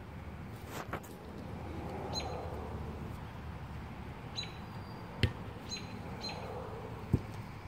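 A bird chirping, with short high chirps repeated about every second or two over a steady low background hiss. Two sharp thumps, about five and seven seconds in, are the loudest sounds.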